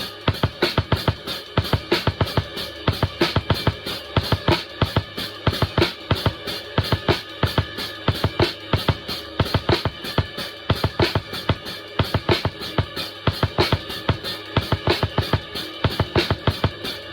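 Drum kit played in a steady, even groove, several strokes a second without a break, with the cymbals' ringing held underneath.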